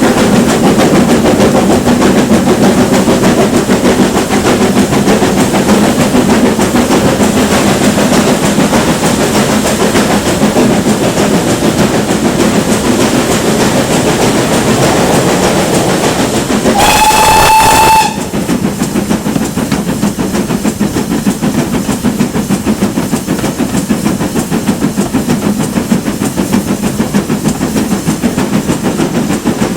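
GWR Manor class steam locomotive and its train running, with a loud, continuous noise and a fast, even beat. About halfway through comes a single whistle blast lasting about a second, after which the train sounds quieter.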